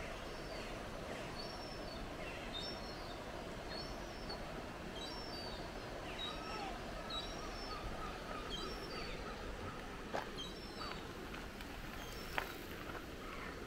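A small songbird repeating a short, high chirping phrase about once a second over a steady rush of water from the weir. Near the end a few footsteps on the path.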